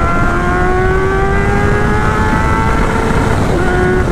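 1999 Honda CBR600 F4's inline-four engine heard while riding, its exhaust very loud, the revs climbing slowly under throttle, then dropping sharply a little after three seconds in and holding steady, as at an upshift.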